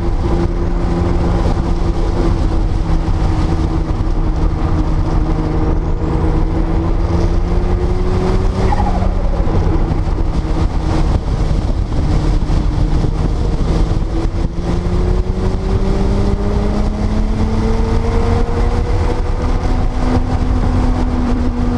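1979 Porsche 930 Turbo's air-cooled 3.3-litre flat-six running at moderate, fairly steady revs, with the revs climbing gradually over the last third. A heavy low rumble sits underneath.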